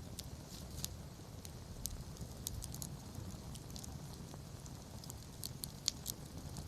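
Wood campfire crackling, with irregular sharp pops over a low steady rumble; one louder pop about six seconds in.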